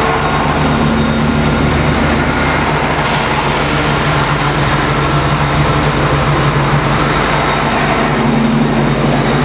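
Multiple-unit passenger train passing close by, its wheels running steadily on the rails with a low hum underneath, at an even loudness.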